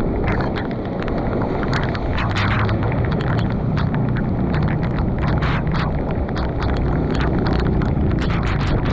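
Heavy rain and splashing water, with many sharp drop hits and a low wind rumble on the microphone.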